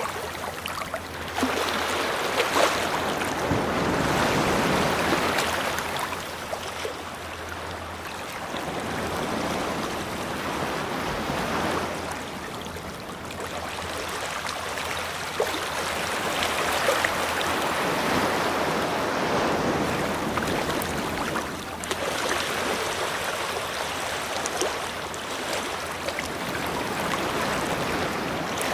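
Ocean waves breaking and washing up a beach, the surf swelling and fading every few seconds.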